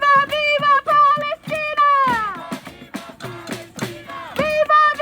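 A loud, high-pitched voice chanting a short rhythmic slogan, a few syllables a second, the phrase sliding down in pitch at its end and starting over near the end.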